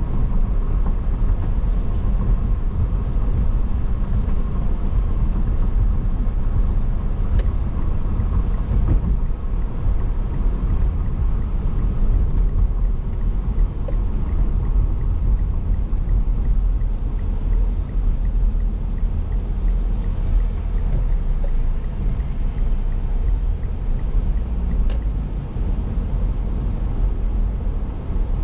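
Steady road noise from a car driving: a constant low rumble of tyres and engine heard from inside the car, with a few faint ticks.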